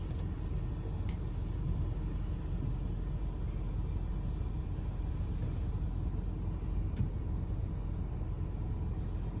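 Steady low rumble of a car's engine and tyres on the road, heard from inside the moving car's cabin, with a single faint click about seven seconds in.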